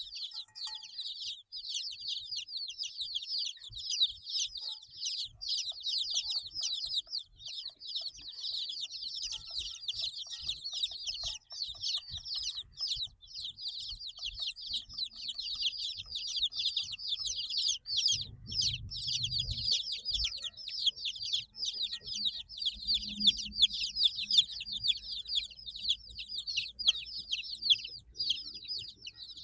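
A group of 8-day-old baby chicks peeping continuously, many rapid high-pitched chirps overlapping. About two thirds of the way through, a low rumble comes in under the chirping.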